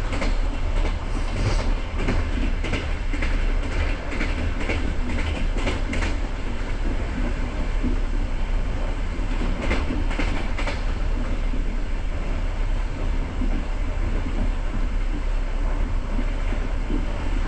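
Passenger train carriage rolling along the track: a steady rumble of wheels on rail, with sharp clicks as the wheels pass rail joints, bunched in the first few seconds and again about ten seconds in.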